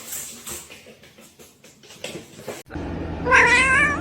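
A cat's long, wavering yowl, starting about three seconds in after scattered clicks and hiss.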